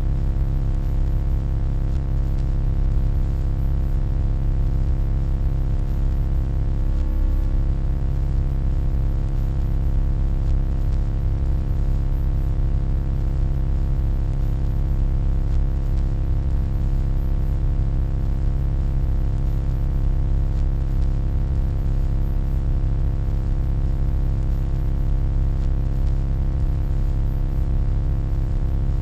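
Steady electronic hum, loudest in the deep bass, with a stack of fainter steady tones above it and a light hiss, unchanging throughout.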